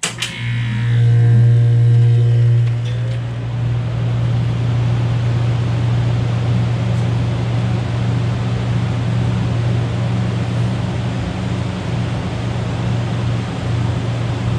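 1993 Comfort-Aire 18,000 BTU window heat pump switching on in heat mode: a click, then the compressor and fan start together with a strong low hum and a rush of air. It is loudest for the first two or three seconds, then settles into steady running.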